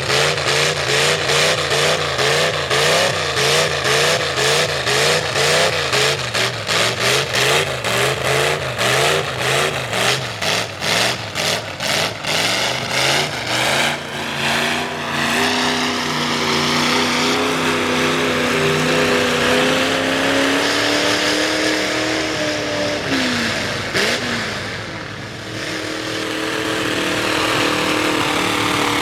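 Ford V8 mud truck engine on open upright headers, revved in rapid repeated throttle blips about twice a second. It then settles into a steady, sustained run at high revs, with a brief dip in pitch near the end before it picks up again.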